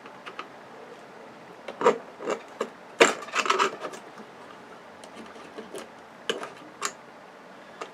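A screwdriver prying and scraping parts off a circuit board: irregular scrapes and sharp clicks, the loudest cluster about three seconds in.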